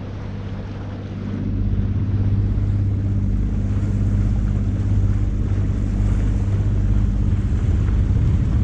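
Sailboat's auxiliary engine running steadily under way, with wind and water rushing over it; the hum gets louder about a second and a half in.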